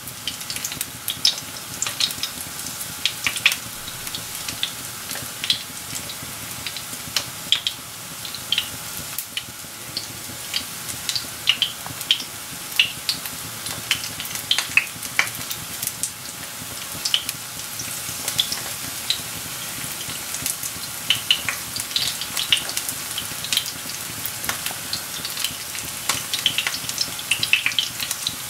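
Battered courgette flowers and courgette strips shallow-frying in hot oil in a frying pan: a steady sizzle with frequent sharp crackles and pops.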